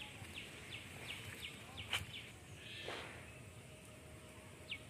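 A bird calling in short, falling chirps, about three a second, which stop a little after two seconds; one more chirp comes near the end. A single sharp click sounds about two seconds in.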